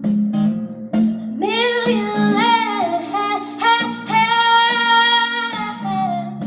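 Music: a female voice sings a wordless melody over guitar accompaniment, sliding between notes and then holding one long high note through the middle.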